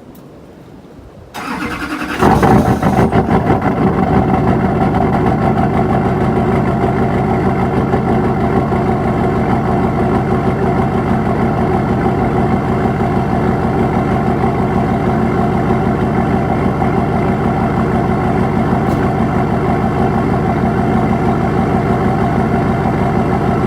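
GM Duramax LB7 6.6-litre V8 turbodiesel cold-started with its block heater not plugged in: the starter cranks briefly about a second and a half in, the engine catches a second later with a loud burst, then settles into a steady idle.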